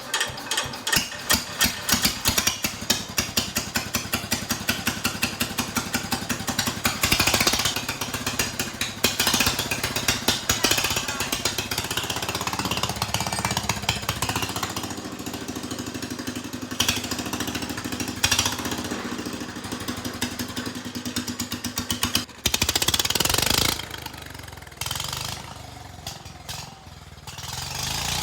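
Small tractor engine running unevenly, its firing surging and sagging with a loud burst of revs near the end. It is being starved of fuel: the owners find that the fuel tank keeps sliding down and the engine isn't getting any fuel.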